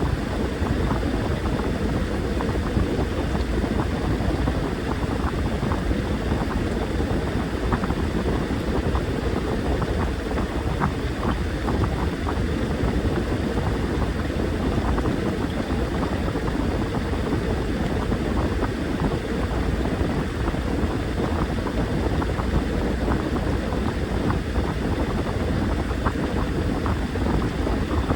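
Washing machine running: a steady motor drone with water churning and splashing in the drum, with many small scattered ticks.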